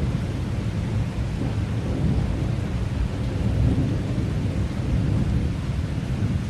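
Thunder rolling and rumbling without a break over steady heavy rain.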